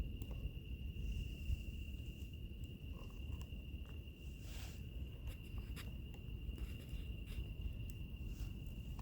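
Fire crackling, with scattered sharp pops and snaps over a low rumble, mixed with insects giving a steady, unbroken high trill.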